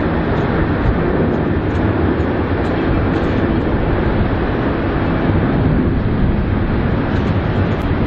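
Steady jet noise of an Airbus A330 airliner coming in to land, a loud, even rumble and rush with no distinct tones.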